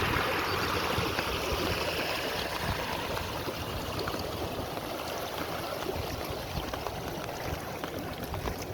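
Running water of a stream, a steady rushing that slowly grows fainter.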